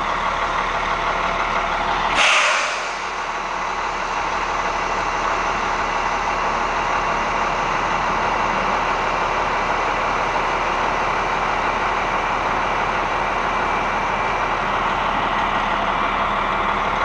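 Heavy truck running steadily, with a short burst of air-brake hiss about two seconds in.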